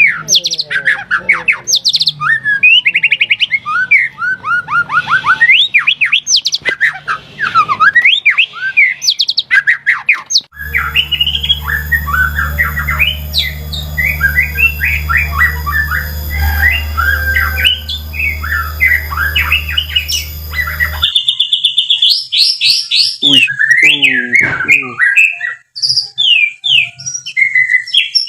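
White-rumped shama (murai batu) singing a fast, varied song of loud whistles, trills and harsh rattles. It runs as three joined recordings, and a steady low hum sits under the middle one.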